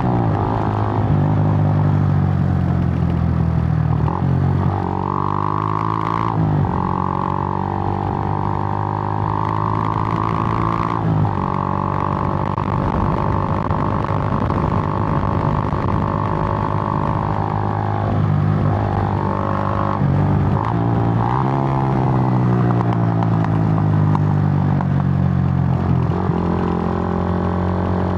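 Suzuki GN125's single-cylinder four-stroke engine running under way, its pitch dropping and climbing again several times as the throttle and gears change.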